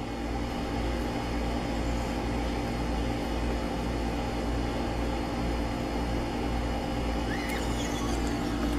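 A steady mechanical drone, like a running motor or engine, a constant low rumble with a hum of several steady tones above it.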